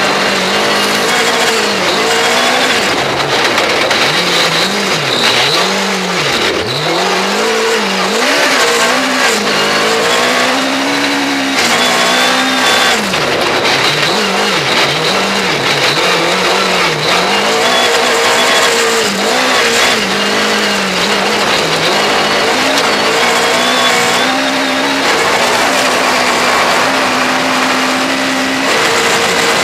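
Honda Civic Type R R3 rally car's Mugen-powered engine driven hard, the revs climbing and dropping back over and over through gear changes and corners, under a constant rush of road and wind noise.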